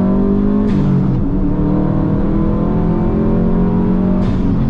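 Straight-piped Subaru WRX turbocharged flat-four engine pulling hard under full throttle on track, its pitch climbing steadily through the gear. It shifts up about a second in and again near the end; each time the pitch drops and there is a short hiss.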